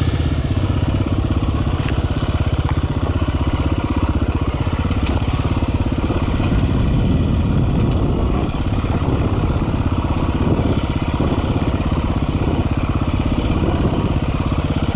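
Enduro dirt bike engine running steadily, its firing pulses even and unbroken.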